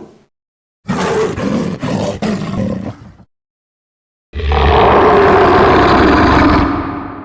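Animated-series Tyrannosaurus rex roar sound effect, played twice. The first roar is shorter and rougher; after a second of silence comes a longer, louder roar that trails off.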